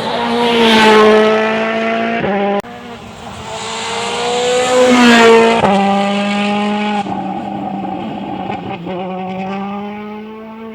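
Rally car engine at high revs passing at speed, its note swelling to a loud peak about a second in and again around five seconds in, then dropping away as it goes by. The sound breaks off abruptly about two and a half seconds in.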